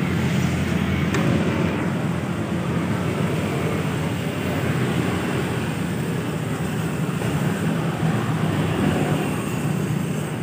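Steady road-vehicle noise: a continuous low rumble with hiss, with no distinct events.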